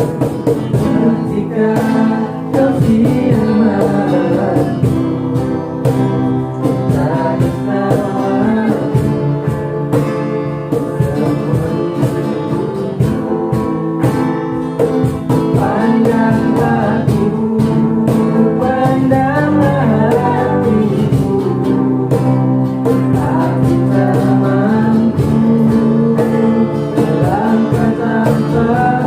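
Singing accompanied by acoustic guitar: a vocal melody over steady strummed chords.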